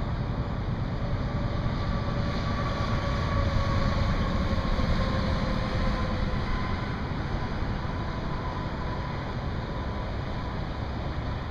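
Heavy vehicle passing: a steady low rumble with a faint whine that slowly drops in pitch, swelling a little louder near the middle.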